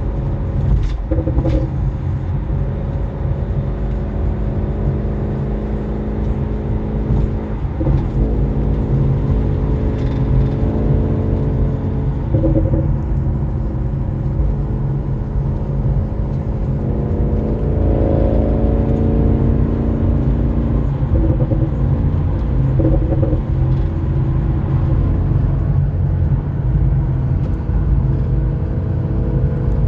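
Audi RS6 with an Akrapovic exhaust under hard driving, its engine note rising and falling as it accelerates and shifts.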